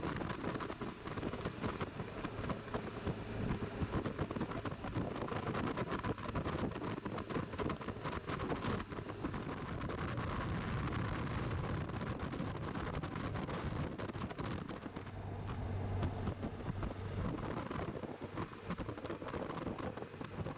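BMW R1200GS Adventure motorcycle running on the road, its engine a low drone under steady wind noise on the microphone, swelling a little around the middle and again past the two-thirds mark.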